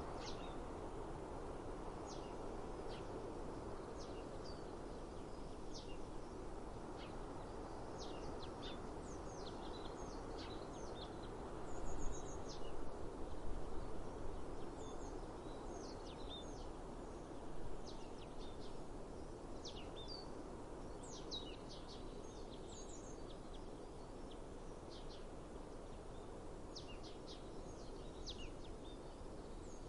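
Small birds chirping over and over in short, high calls, over a steady outdoor background hiss. A few louder rough bursts of noise come near the middle.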